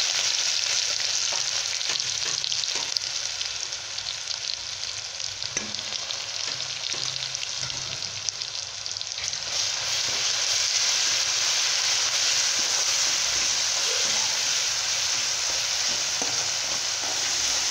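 Green chilli, coriander and garlic paste sizzling in hot oil with cumin seeds in a metal pan, stirred now and then with a spatula that makes small scraping clicks. The sizzle eases a little a few seconds in, then grows louder again about halfway through.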